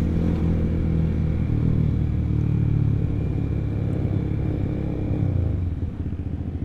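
Honda CBR150R's single-cylinder engine breathing through an R9 aftermarket exhaust, running steadily under way, then easing off about five and a half seconds in and settling into a pulsing, idle-like beat near the end.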